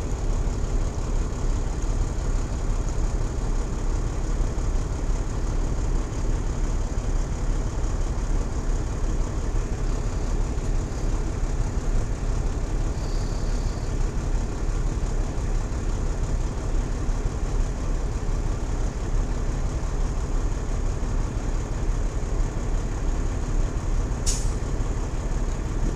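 Peterbilt 379 truck's diesel engine idling, a steady low drone heard inside the cab. A brief sharp sound comes near the end.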